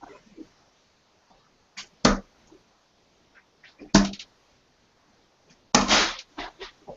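Three steel-tip darts striking a dartboard one after another, about two seconds apart, each a sharp thud; the third hit is the longest.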